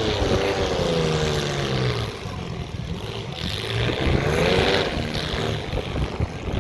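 Compact-car engines revving in a demolition derby, their pitch rising and falling in swells near the start and again about four seconds in, over a steady mechanical din.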